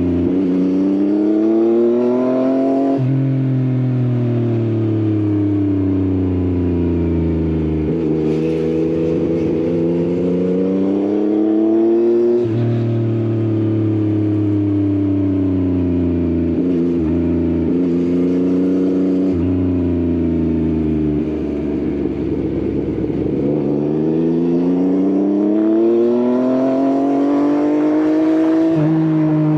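Yamaha XSR900's inline-three engine through an Akrapovič exhaust, accelerating and easing off: its pitch climbs and then drops back in steps as it shifts gears, several times, with a rougher, slightly quieter stretch while slowing in the middle.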